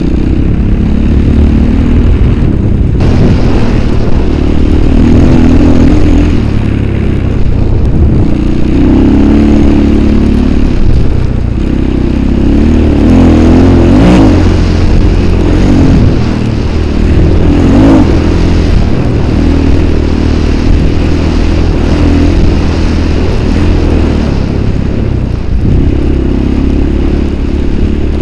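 Engine of the vehicle being ridden, running loudly under load, its pitch rising and falling as the throttle is worked, with brief revs about halfway through and again a few seconds later.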